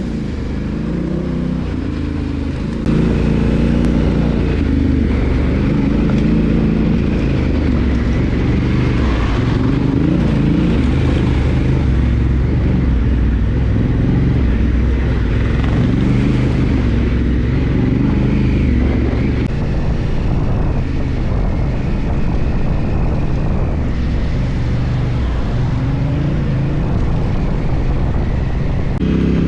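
Motorcycle engine running on the move, its pitch rising and falling with the throttle, stepping up in loudness about three seconds in.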